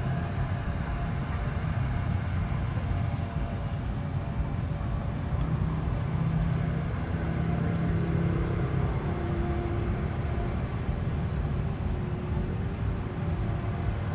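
An engine running steadily at an even speed, a low continuous hum.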